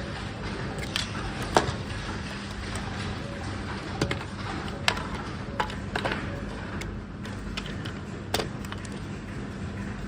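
Battery case parts being handled: irregular sharp clicks and knocks, about seven in all, the loudest about a second and a half in, over a steady low hum.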